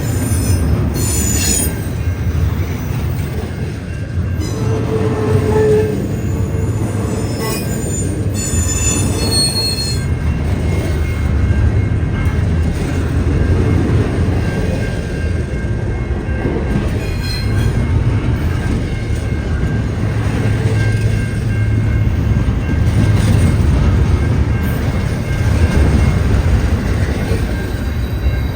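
Freight cars of a long CN freight train rolling past with a steady, loud rumble. Wheels give short high-pitched squeals about a second in, again around eight to ten seconds in, and briefly near seventeen seconds.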